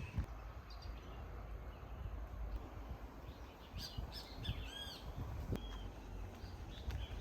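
Birds chirping: a cluster of short, arching calls about four to six seconds in, over a low outdoor rumble with scattered soft thumps.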